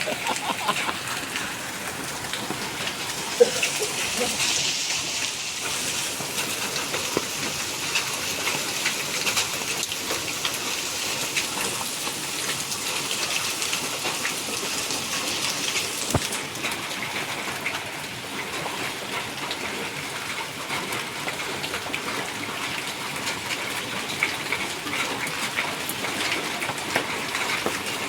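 Hailstorm: hailstones and rain falling steadily, a dense hiss dotted with many small ticks of stones striking.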